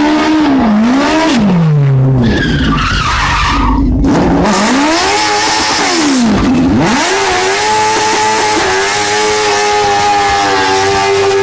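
Stunt motorcycle engine revved up and down hard several times, then held steady at high revs, with tyres screeching and hissing as the rear wheel spins in a burnout.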